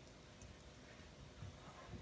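Near silence: a wood fire in a fireplace crackling faintly, with a few soft pops, over a low room rumble. A faint short whine comes near the end.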